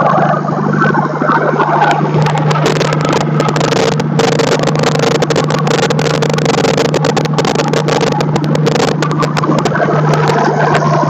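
Heavy diesel engine running with a steady low drone. From about two seconds in until near the end, a dense, rapid run of sharp knocks and clatter rises over it.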